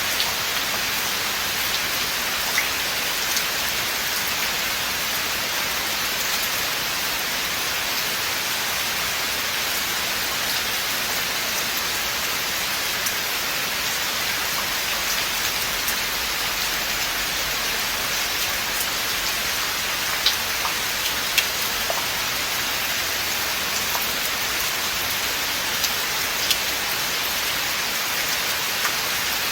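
Steady rain falling in a forest: a dense, even patter with a few louder single drops now and then.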